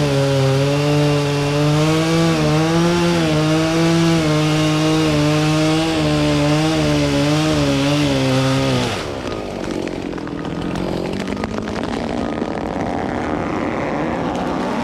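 Chainsaw running flat out in a cut, its pitch wavering as it loads and unloads, then stopping about nine seconds in. After that a lower steady machine engine drone with scattered crackles remains.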